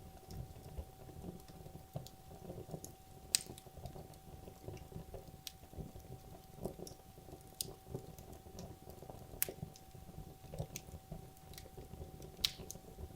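Wood logs burning in a fireplace: a low flutter of flame with irregular crackles and sharp pops, the loudest pops about three seconds in and near the end.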